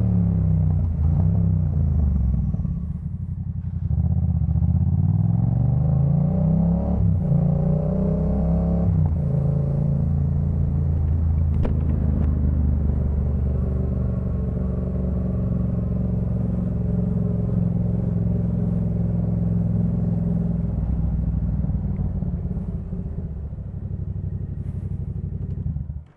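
Yamaha MT-07's 689 cc parallel-twin engine through a Jeskap K4 full aftermarket exhaust. Its revs fall, climb again about four seconds in, drop back, then hold steady before fading and cutting off.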